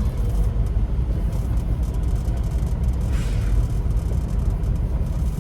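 Steady low rumble of a semi-truck's engine and tyres on the road, heard inside the cab while driving, with a brief rush of noise about three seconds in.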